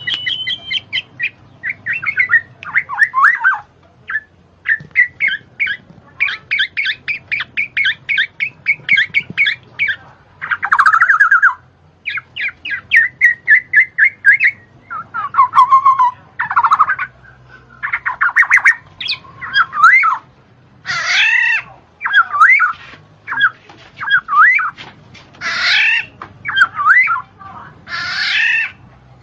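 A bird calling continuously in varied phrases: fast runs of short chirps, trills, and loud squawking calls.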